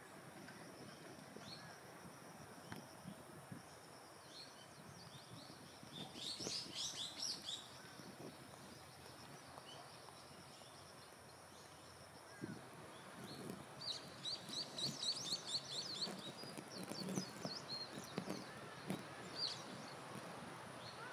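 Birds chirping against a quiet outdoor background: a burst of quick high chirps about six seconds in and a longer run of rapid repeated chirps from about fourteen seconds. A few soft low thuds come in the second half.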